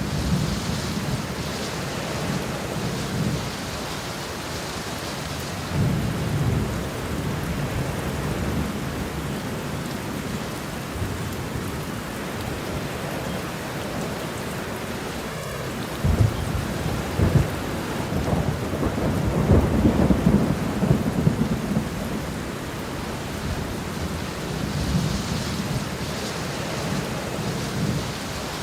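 Steady rain with thunder rumbling several times. The loudest roll starts suddenly about halfway through and rumbles on for several seconds.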